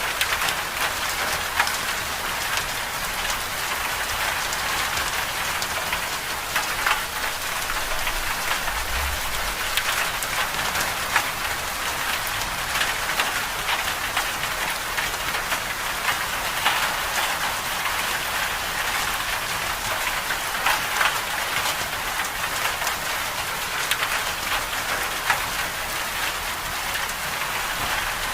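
Storm ambience: a steady, dense hiss of rain or sleet striking a surface, scattered with many small sharp ticks.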